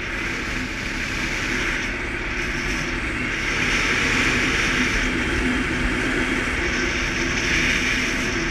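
Suzuki KingQuad ATV engine running steadily while riding, mixed with wind and road noise that get a little louder partway through.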